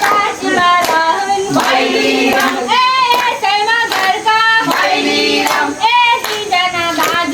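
Several voices singing together, with hand claps keeping time.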